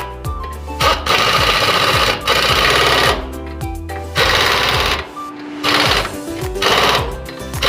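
Background music with steady bass notes, cut across by loud bursts of rapid rattling from an impact wrench. The longest burst lasts about two seconds, followed by a few shorter ones.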